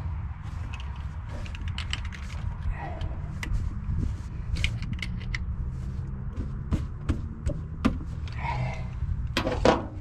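Scattered metallic clicks and clinks of hand tools working on a car engine, over a low steady rumble, with a louder knock near the end.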